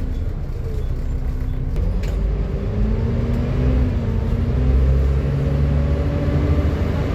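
Volvo B7TL double-decker bus's diesel engine under way, its engine note rising in pitch and growing louder about halfway through as the bus accelerates.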